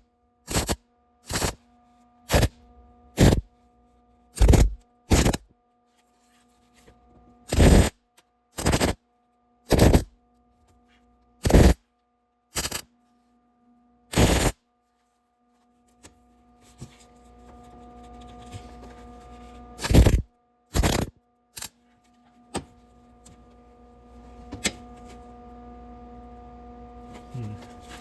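Aerosol spray can of paint or primer fired in about fifteen short hissing bursts, each under half a second and irregularly spaced, while coating the underside of the truck body.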